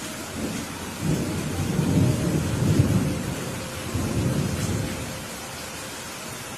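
Thunder rumbling over steady rain: a low rolling rumble builds about a second in, swells twice and dies away, with the hiss of rain throughout.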